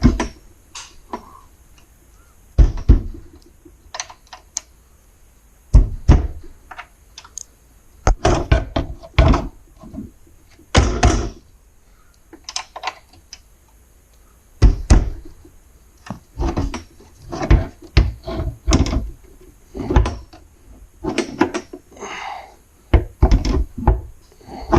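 Irregular knocks, clunks and clatter of hand work with tools and parts, some hits sharp and some with short scraping tails, at no steady rhythm.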